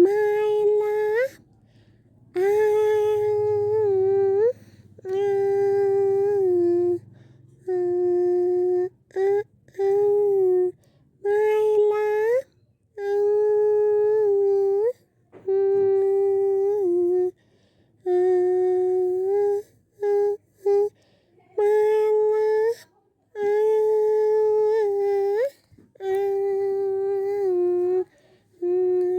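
A high voice humming a slow tune in long held notes, each lasting a second or two and often ending with an upward slide, with short breaks between them.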